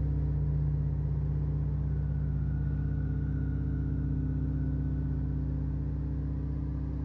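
Low sustained ambient music drone, slowly fading, with a faint high tone drifting in and out around the middle.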